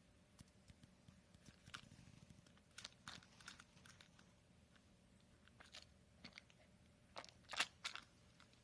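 A cat clawing and biting at a cat-snack box on the floor, trying to get it open: scattered faint scrapes, crinkles and taps, with a louder cluster near the end.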